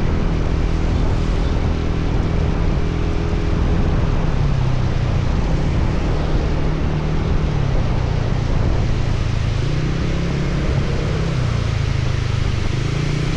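Motorcycle engine running under way, its pitch shifting up and down with the throttle, under a steady rush of wind and rain noise.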